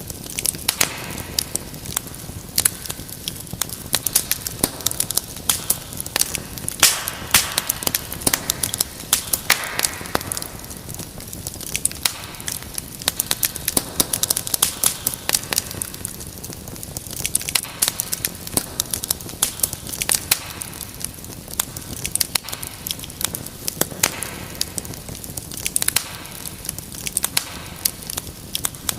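Wood fire crackling in a fireplace: a steady stream of irregular sharp pops and snaps over a low hiss.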